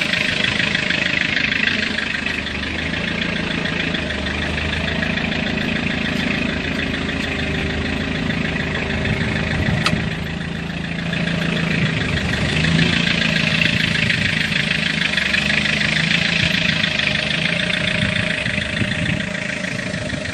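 SUV engine idling steadily, with a brief sharp click about ten seconds in.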